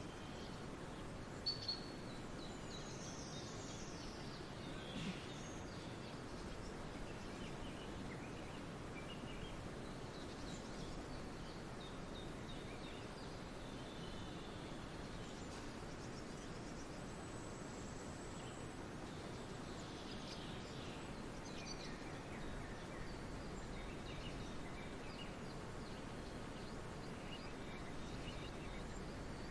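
Forest ambience: scattered songbird chirps and short whistled phrases over a steady low background hiss, with two brief clicks about a second and a half in.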